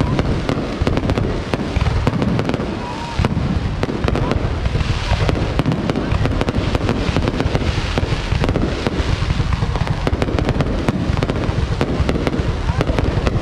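A fireworks display going off in a dense, continuous barrage: many sharp bangs and crackles over a steady low rumble.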